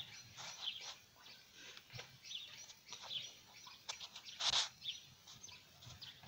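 Small birds chirping faintly with short, high calls scattered throughout, and one louder, brief sound about four and a half seconds in.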